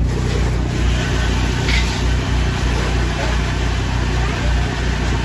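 An engine running steadily with a low, pulsing hum.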